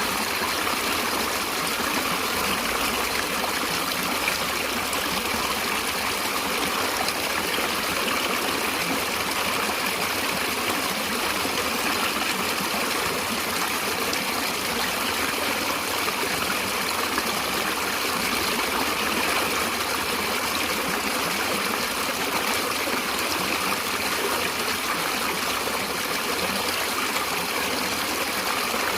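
Natural stream water flowing and trickling steadily, an even rushing without breaks.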